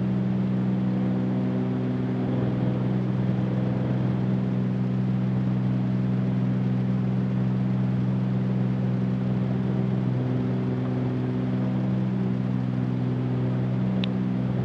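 Cessna 310Q's twin piston engines and propellers droning steadily in the cabin during the climb after takeoff, a low, even hum with several steady tones. A brief click near the end.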